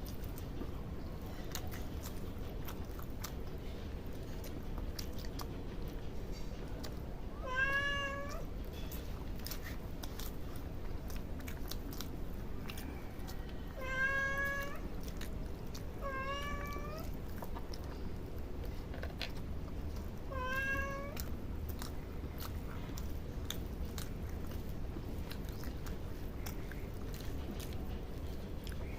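A cat meowing four times, short pitched calls a few seconds apart, over faint chewing and small clicks of eating.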